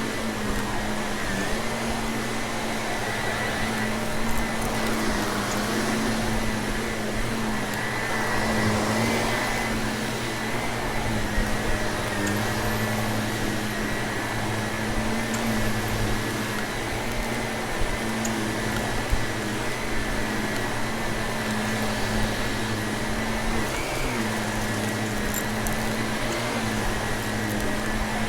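Vacuum cleaner running steadily, a constant motor hum with a high whine, with a few sharp clicks of crunchy debris being sucked up.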